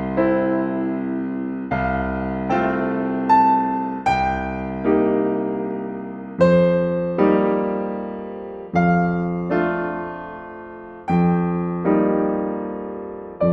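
Slow, gentle solo piano music: chords and single notes struck every second or two, each ringing out and fading before the next.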